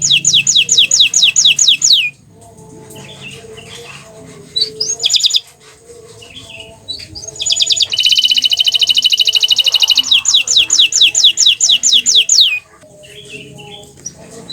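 Bottle-green domestic canary singing: fast trills and runs of quick downward-sweeping notes, in two long loud bursts with a short phrase and quieter pauses between.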